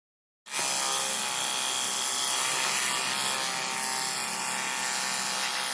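Battery-powered pressure washer's electric motor and pump running steadily with a dense whine, cutting in abruptly about half a second in.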